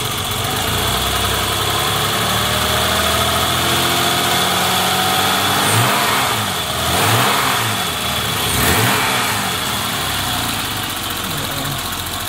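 BMW E30 325's M20 straight-six engine revved by hand at the throttle linkage: the revs climb slowly, then three quick blips about a second and a half apart, each falling back, before it settles to idle. It runs smoothly under throttle.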